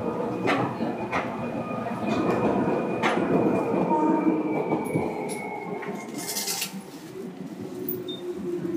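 Running sound inside a Seibu 2000 series electric commuter train: the steady rumble of the car with a few sharp clicks of the wheels over rail joints. About halfway through, a steady hum comes in.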